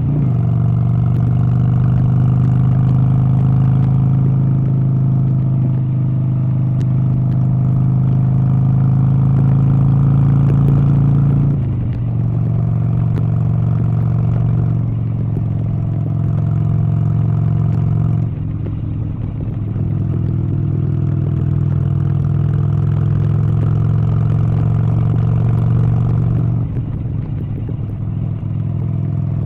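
An engine running steadily, its pitch and level shifting in steps every few seconds.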